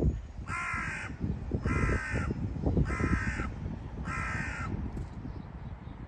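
A bird giving four harsh calls, evenly spaced about a second apart, each about half a second long, over a low rumbling noise.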